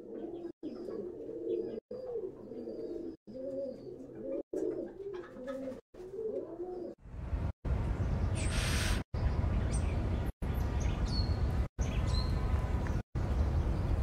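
Repeated low cooing bird calls, each hoot bending up and down in pitch, for about the first seven seconds. Then a steady low rumble takes over, with a few faint high chirps above it.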